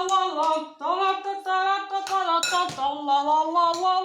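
A child's high voice singing long held notes without words, gliding from one pitch to the next, with two short breaks for breath.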